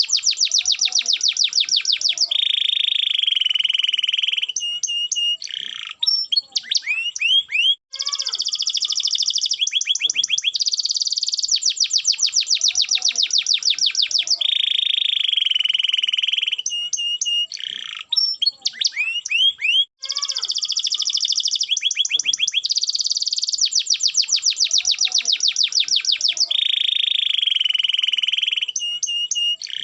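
Domestic canary in full song: loud, rapid trills and rolling tours, with short pauses between phrases. The same run of phrases comes round again about every twelve seconds.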